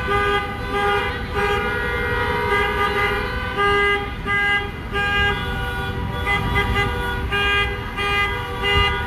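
Several car horns honking on and off, overlapping in different pitches, over the low rumble of slowly passing traffic.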